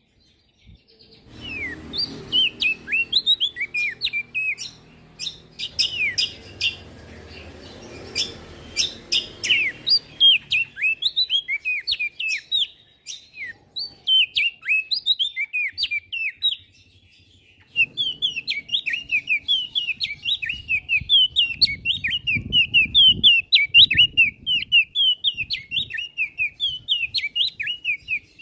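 Prenjak daun songbird singing a fast, chattering run of short high chirps, with brief pauses. A low rumble and a few sharp clicks sit under the song in the first ten seconds or so.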